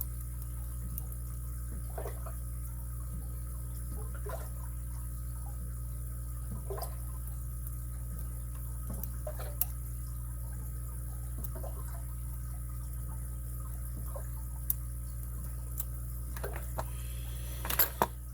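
Faint scattered clicks and scrapes of a lock pick and tension wrench working the pins of a padlock during single-pin picking, with a couple of sharper clicks near the end. A steady low hum runs underneath.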